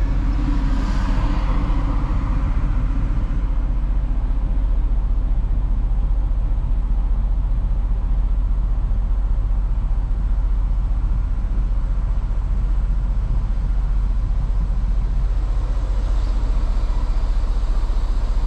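Steady low rumble of an idling diesel truck engine heard from inside the cab.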